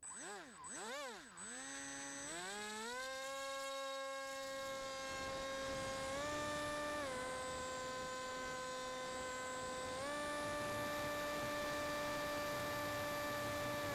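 Electric motor and pusher propeller of a small RC flying wing: two quick throttle blips, then a run-up to a steady full-throttle whine that steps slightly up and down with the throttle, over a steady hiss.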